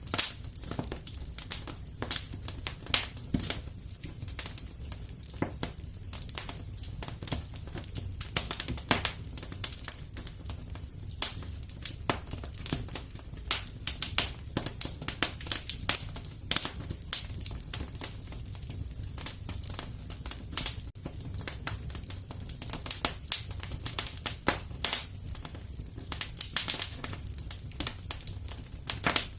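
Fireplace fire crackling: irregular sharp pops and snaps, a few louder ones, over a steady low rumble.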